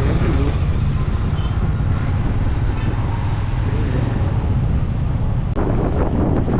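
Wind rushing over the microphone and road noise while riding a motorcycle through city traffic, a steady low rumble throughout. About five and a half seconds in, the wind noise turns suddenly rougher and more buffeting.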